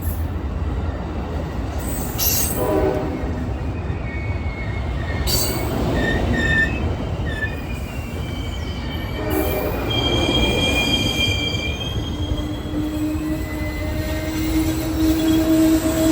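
Train rolling past with a steady rumble, its wheels squealing in thin high tones that come and go.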